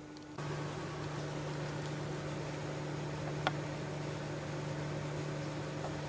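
A steady low hum with an even hiss, starting abruptly about half a second in, with a single faint click near the middle.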